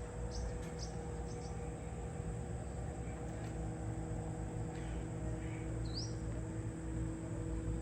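Steady low background hum with a few short, high, rising chirps, the kind a small bird makes, about six seconds in and again at the end.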